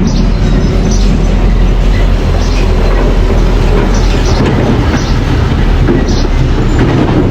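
Mini bulldozer working: a steady low engine rumble, with the steel tracks clanking and giving short squeals every second or so.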